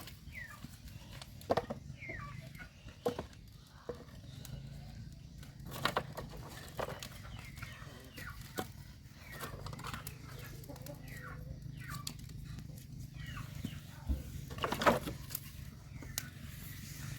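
Chickens clucking, with short falling calls, alongside sharp irregular pops and crackles from a wood bonfire that is just catching.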